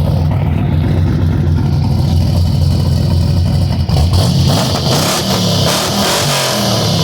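Car engine running with a steady low exhaust rumble, then revved from about four seconds in, the pitch rising and falling.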